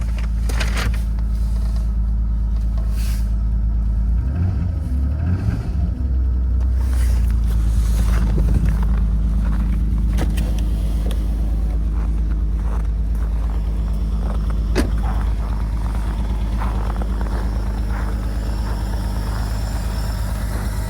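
Jeep Grand Cherokee's 4.0-litre inline-six idling steadily after a −11 °F cold start, with a brief low rumble about four seconds in and a single sharp click about fifteen seconds in.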